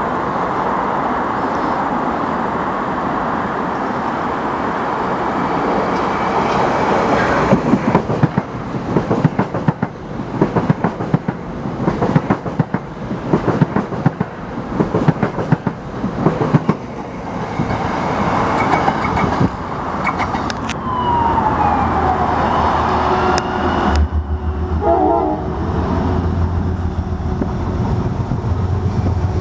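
A Metro-North commuter train passing at speed: a rushing rumble, then a long run of rapid wheel clicks over the rail joints, a falling whine, and a low steady hum near the end.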